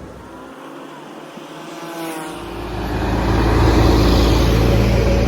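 A truck's engine comes up close. It is faint at first, with a rising engine note, then turns into a loud low rumble with road noise from about two and a half seconds in, and stays loud.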